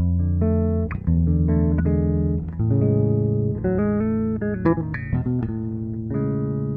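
Five-string StingRay-style bass with two humbuckers, recorded clean and direct with flat EQ, playing a melodic, chordal passage: several notes ring together and the chords change about every second, ending on a held chord.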